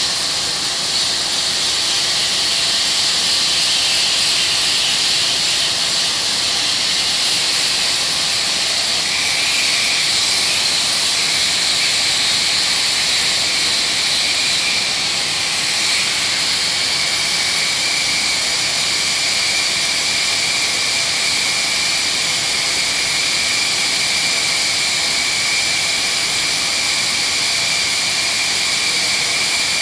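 Dry sanding of body filler: a steady, high hiss, with a faint whine coming in about nine seconds in.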